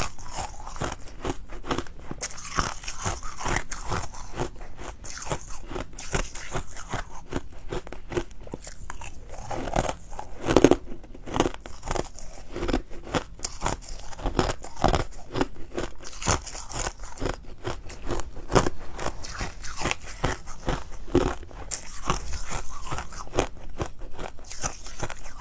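Ice being bitten and chewed close to the microphone: a steady run of hard, irregular crunches and crackles, with one especially loud crunch about ten seconds in.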